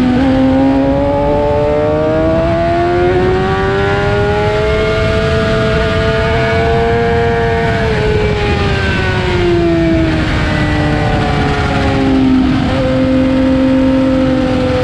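Suzuki GSX-R750's inline-four engine heard from on board at speed: the revs climb steadily for about seven seconds, fall off over the next few as the bike slows for a corner, then hold lower, with wind rush over the microphone.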